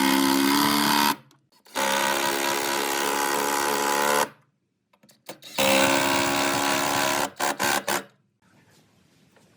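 Small electric power tool motor running at a steady pitch in three bursts, each starting and stopping abruptly, with silence between.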